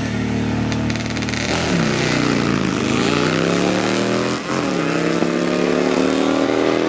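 Motorcycle engine at full throttle on a drag run. Its pitch holds steady for about a second and a half, then climbs with two sudden drops, at about one and a half and four and a half seconds in, as it shifts up through the gears.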